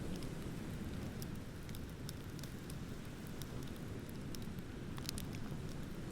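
Wood bonfire crackling, with scattered sharp pops and a small cluster of them about five seconds in, over a steady low rush of ocean waves.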